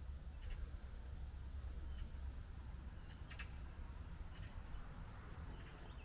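Small birds giving a few short, high chirps, scattered a second or so apart, over a low steady rumble.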